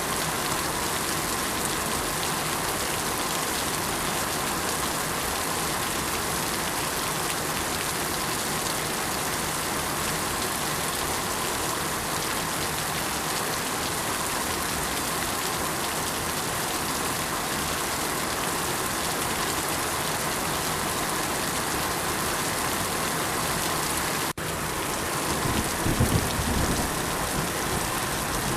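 Steady rain falling, an even continuous hiss. It cuts out for an instant about 24 s in, and a low rumble swells and fades near the end.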